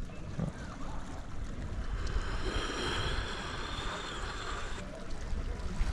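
Wind on the microphone and sea surf, a steady low rumble; in the middle a hiss swells for about three seconds and cuts off suddenly.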